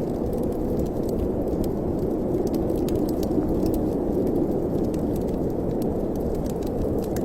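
Fire in a fireplace burning, with scattered small crackles over a steady low rush of wind.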